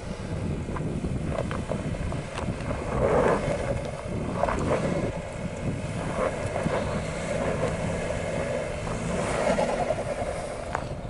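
SUV driving slowly over a rough off-road trail: a steady low rumble with swells of noise and scattered short clicks and knocks.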